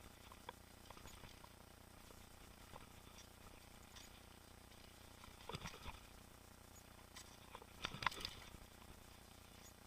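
Mountain bike rattling over the trail: faint scattered clicks and ticks, with two short bursts of clatter about five and a half and eight seconds in, the second the louder.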